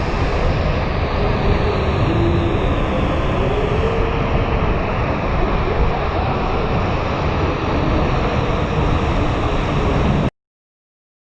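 Steady rush of wind and road noise from a moving motorcycle, with a heavy low rumble, cutting off suddenly to silence about ten seconds in.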